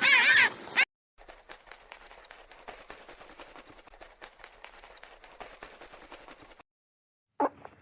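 Loud, wavering animal calls, repeated honks, cut off abruptly about a second in. Then a faint crackling, clicking noise runs for about five seconds and stops. Near the end a loud new animal sound begins suddenly.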